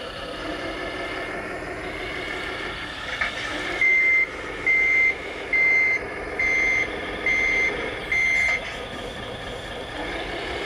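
Reversing beeper of a radio-controlled scale model truck's sound module: six evenly spaced high beeps, a little under one a second, starting about four seconds in, over a steady running noise.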